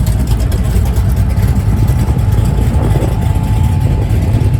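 Steady low rumble of a car engine running, with a faint thin tone between about two and four seconds in.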